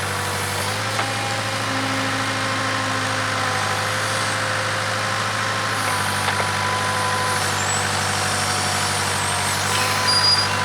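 Case 580K backhoe's diesel engine running steadily, with a few faint clicks and a brief louder clatter near the end.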